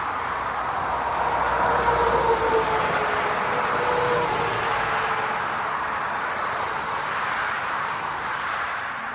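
Jet airliner engines running, a steady rush with a faint whining tone, loudest about two seconds in and easing slightly near the end.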